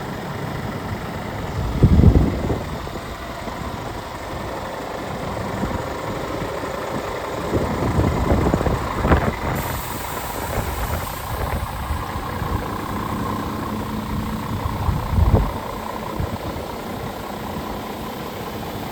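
Scania G450 truck's 13-litre straight-six diesel idling steadily, with a few heavy low thumps about two, nine and fifteen seconds in.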